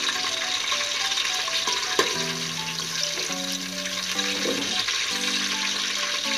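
Potato chunks frying in hot oil in an aluminium pot, a steady sizzle, as a slotted spoon stirs them, with one sharp knock of the spoon against the pot about two seconds in. Soft background music plays throughout.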